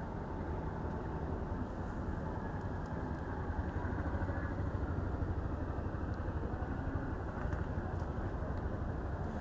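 Sonalika tractor's diesel engine running steadily, an even low rumble with no revving.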